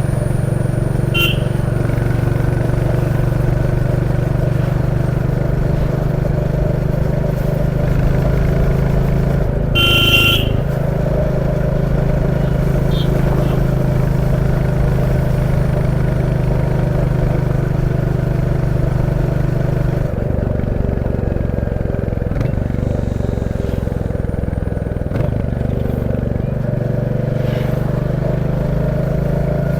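Royal Enfield Classic 350's single-cylinder engine running steadily on the move, its note shifting around twenty seconds in. Short vehicle-horn beeps sound about a second in and again about ten seconds in.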